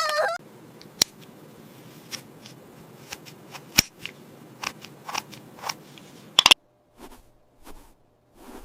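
Light clicks and taps of small plastic toy pieces being handled, scattered over a faint hiss, with a quick cluster of sharper clicks about six and a half seconds in.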